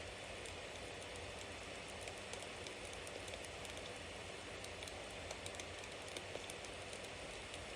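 Bonfire burning: a steady hiss of flames with frequent small, sharp crackles and pops from the burning wood.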